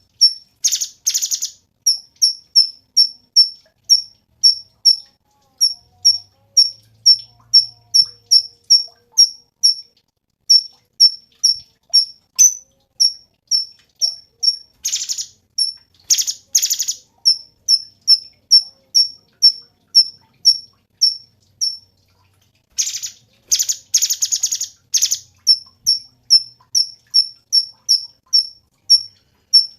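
Cucak cungkok bird calling: a fast, even series of short high chips, about three a second. These are broken by loud, harsh buzzy rattles, one near the start, two about halfway, and a longer run a few seconds before the end.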